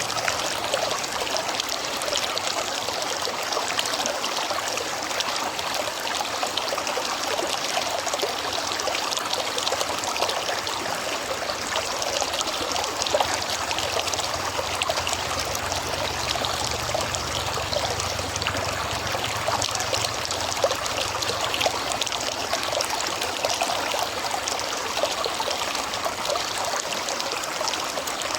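River water flowing steadily, an even, continuous rush of running water.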